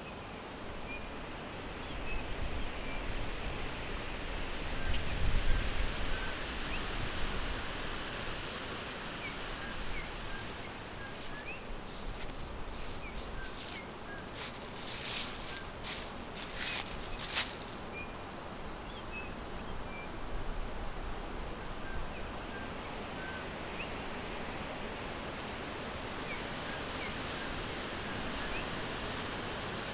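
Forest ambience: small birds chirping briefly and faintly now and then over a steady background hiss. A low rumble comes about five seconds in, and a run of short crackling rustles falls around the middle.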